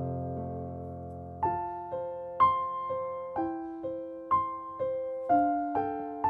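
Background music on piano: a held chord, then a slow, gentle melody of single notes about two a second.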